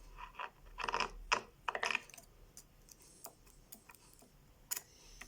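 Small clicks and knocks of the parts of a food processor's gearbox being handled, the gears loose on their shafts. Most of them come about a second in, with one sharp click near the end.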